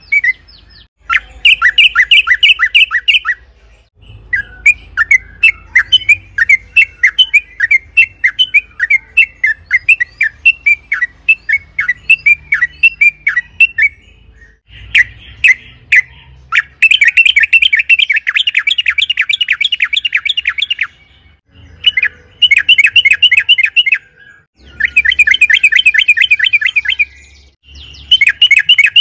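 Yellow-vented bulbul (trucukan) singing in rapid, chattering runs of repeated sharp notes. The runs come in bursts of a few seconds with short pauses between them, and there is a slower string of notes partway through.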